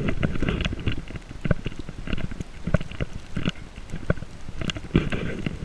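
Footsteps crunching through deep snow, an uneven series of steps about one a second, with low rumble from the microphone.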